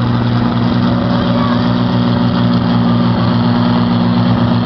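Pulling tractor's engine running at a steady speed, without revving up or down.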